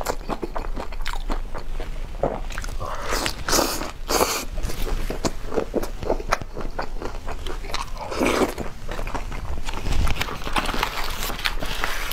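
Close-miked crunching and chewing of crisp food, a fried hard-shell taco being eaten, in a steady run of irregular crunches.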